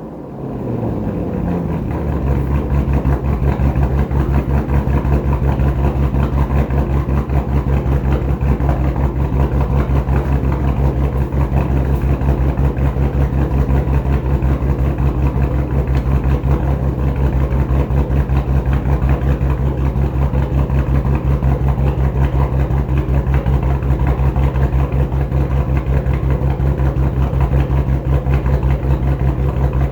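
2014 Shelby GT500's supercharged 5.8-litre V8 with aftermarket L&M camshafts, heard through Corsa Extreme mufflers on an otherwise stock exhaust. Its engine speed falls over the first couple of seconds, then it settles into a steady, choppy cammed idle.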